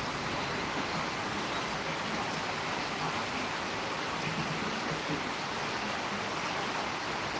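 Steady rushing noise of a storm, even and unbroken throughout.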